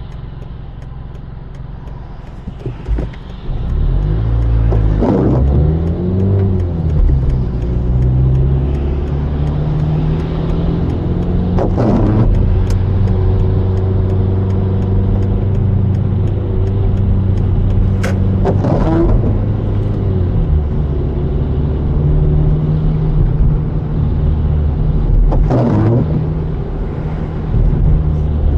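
Car engine and road noise while driving, the engine's pitch climbing and shifting as it accelerates, getting louder a few seconds in. A short sound recurs about every seven seconds.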